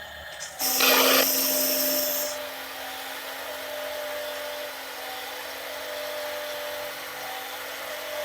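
Small electric motor of a radio-controlled toy dump truck whirring: it starts suddenly about half a second in, loudest for the first second or two, then settles into a steady high whine.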